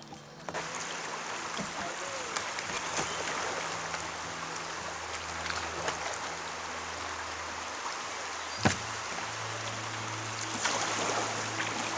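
Creek water rushing in a riffle around a kayak, a steady rushing hiss with small splashes and clicks. One sharp knock stands out about two-thirds of the way through.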